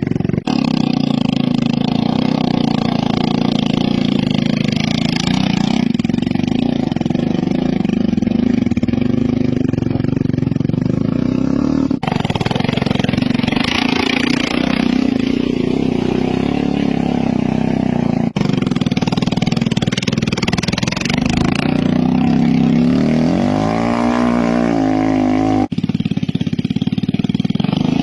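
Motorcycle engines running hard on steep hill climbs, heard in several short clips joined by abrupt cuts. Toward the end one engine revs, its pitch rising and falling several times.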